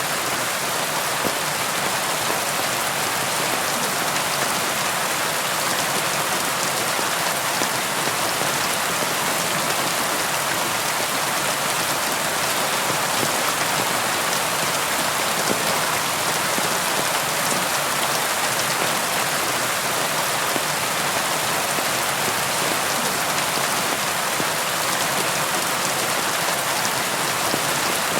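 Steady rain falling on a tin roof, a dense, even patter that does not change.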